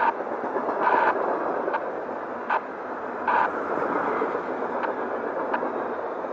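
Covered hopper cars of a CSX grain train rolling past: a steady rumble of steel wheels on rail, with sharp clicks as wheels cross a rail joint and three short, louder metallic squeals.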